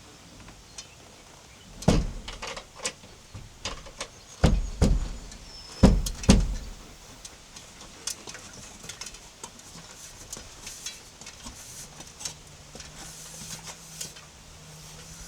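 A series of heavy thuds and knocks: about five hard ones between two and six and a half seconds in, with lighter knocks among them, then scattered light clicks and taps. A faint low hum sits under the start and the end.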